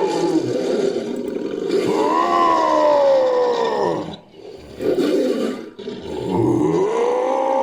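Sound-effect roars of an invented cat-like creature, made from edited animal roar recordings. A long call rises and falls, breaks off about four seconds in with a brief rough burst, then another roar rises and holds steady.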